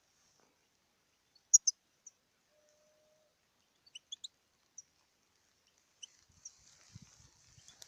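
European goldfinch giving short, high chirping calls, spaced out singly and in small groups, with two louder chirps about a second and a half in. Near the end a faint hiss and some soft low knocks come in.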